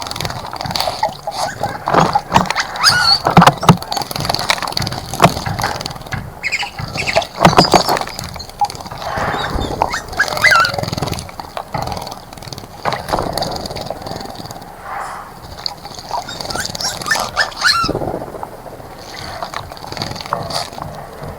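Small wild birds splashing in a bird bath: irregular bursts of splashing water with short chirps now and then.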